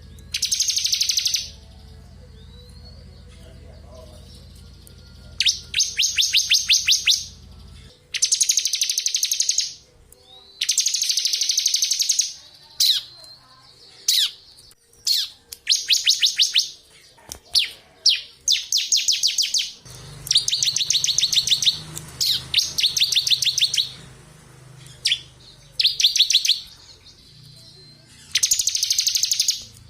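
Bar-winged prinia (ciblek) singing hard: about a dozen rapid, high-pitched trills of one to two seconds each, with short single chirps between them. A faint low hum sits underneath in the first eight seconds and again from about twenty seconds in.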